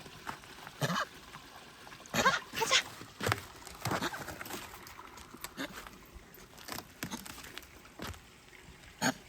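A dog moving about, making irregular rustles and scuffs.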